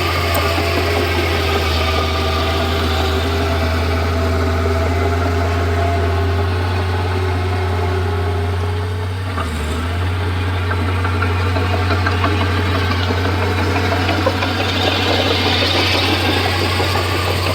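Komatsu D31P bulldozer's diesel engine running steadily, with a brief dip in its note about halfway through.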